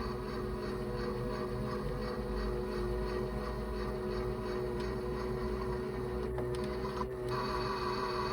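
Small electric motor of a toy washing machine running steadily, a whirring hum with a faint regular ticking. It briefly dips about seven seconds in.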